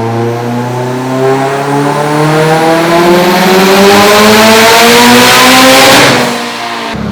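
Mitsubishi Evo X's turbocharged 2.0 L four-cylinder making a full-throttle dyno pull on race gas at about 30 psi of boost, its pitch climbing steadily and growing louder. About six seconds in the throttle closes with a brief rush of noise, and the engine drops back to a low, steady run.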